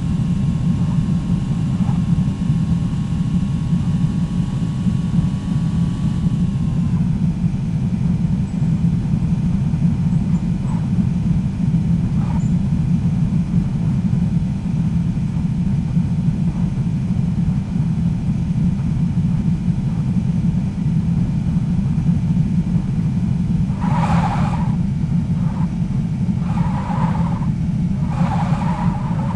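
Steady rumble of a motor vehicle under way, engine and road noise. A faint engine tone drops slightly in pitch about six seconds in.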